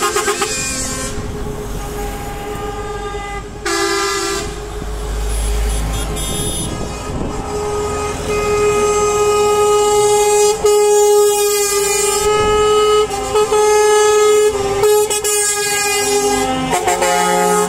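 Truck air horns sounding: a short blast about four seconds in, then long held multi-note blasts from about eight seconds on, broken by brief gaps, over the low rumble of engines.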